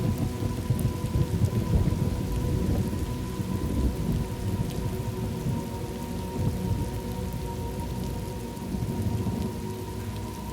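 Thunderstorm ambience: steady rain with a deep rolling rumble of thunder. The rumble is strongest in the first few seconds and eases a little toward the end.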